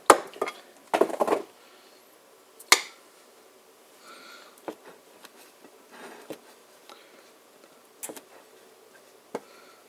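Kitchen utensils and dishes being handled while bread is buttered: a few sharp knocks and clatters in the first three seconds, then scattered light taps and faint scraping.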